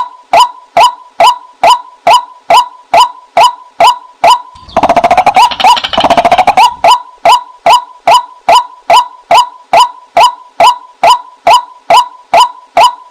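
Female white-breasted waterhen call played as a decoy: short "kwak" notes repeated evenly, about two a second. About five seconds in, a rapid chattering run of about two seconds breaks the series, then the even calls resume.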